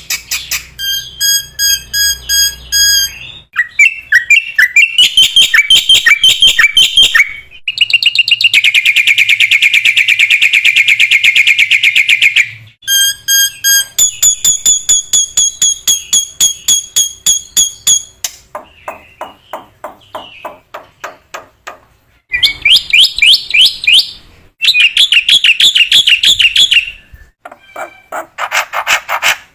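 Black-winged myna (jalak putih) singing a long, loud, varied song in phrases of a few seconds each: clear whistled notes, fast rattling trills and one long buzzy trill near the middle, with short pauses between phrases.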